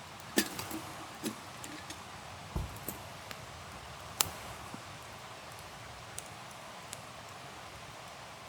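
A few sharp clicks and knocks, with one dull thump about two and a half seconds in, over a steady low hiss.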